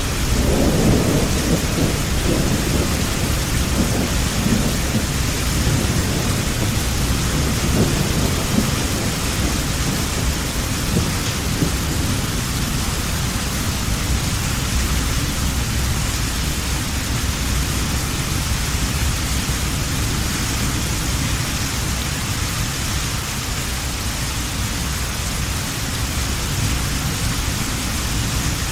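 Heavy rain falling steadily, with a low rolling rumble of thunder in the first part that dies away over about ten seconds.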